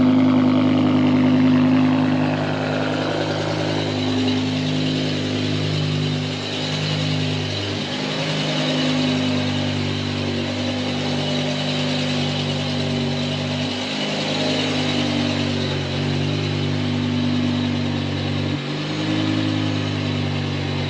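BMW E60 M5's 5.0-litre V10 engine running, its revs falling over the first few seconds and then holding steady.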